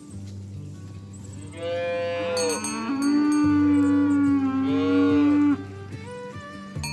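A cow mooing: one long, drawn-out call lasting about four seconds, starting a second and a half in and breaking off sharply near the end.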